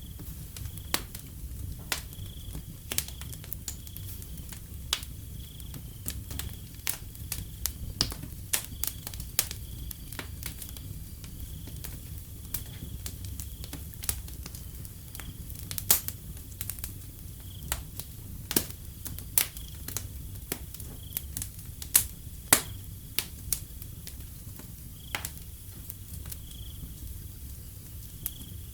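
Wood fire crackling, with irregular sharp pops and snaps over a low, steady rumble. A faint, steady high chirping of crickets runs beneath it, pulsing every second or two.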